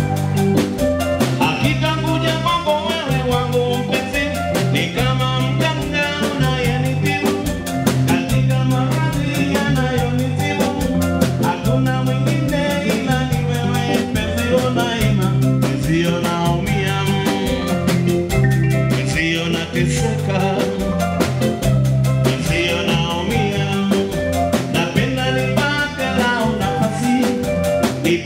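Live band playing upbeat dance music with a drum kit keeping a steady beat, a strong bass line and a singer's voice.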